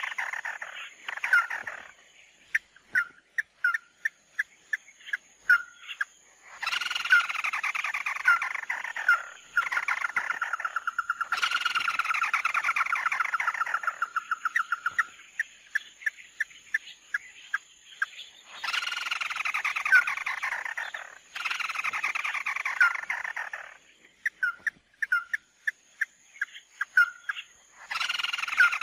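Calls of the bird known to Vietnamese bird-trappers as mắt đỏ ('red-eye'), from a lure recording: long harsh trills that fall in pitch, each lasting a few seconds, alternating with runs of short sharp notes.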